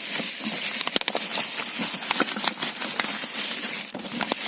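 Rummaging through bags of newly bought car parts: steady crinkly rustling of packaging with many small knocks and clicks.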